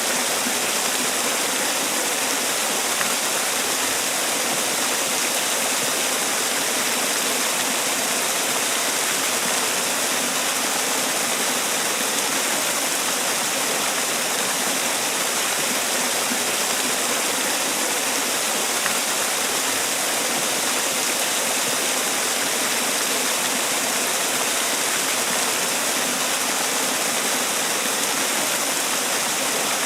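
Man-made waterfall: water falling and splashing in a steady, unbroken rush, with the most energy in the hiss and little low rumble.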